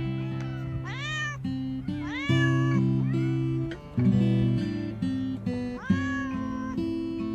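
Stray cat meowing three times, each call rising and then falling in pitch, over guitar background music.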